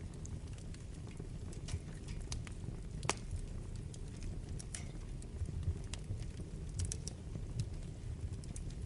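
Wood fire burning in a fireplace: a steady low rumble of the flames with irregular sharp crackles and pops of the burning logs, one louder pop about three seconds in.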